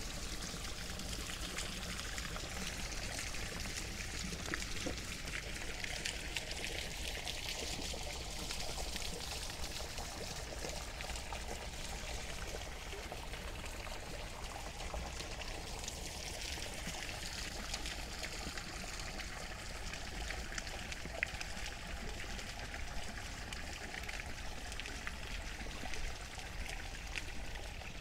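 Steady rain, a continuous hiss of water with the fine patter of individual drops.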